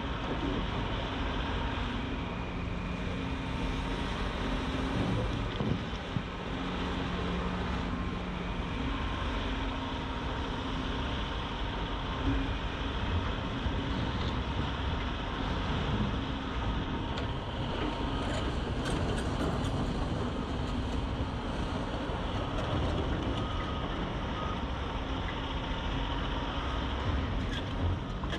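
Heavy construction machinery running steadily, the diesel engine noise of the working machines, with a few faint clicks about two-thirds through.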